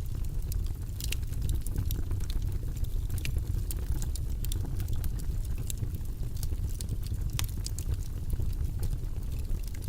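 Steady, low-pitched white-noise ambience with many small scattered crackling clicks over it.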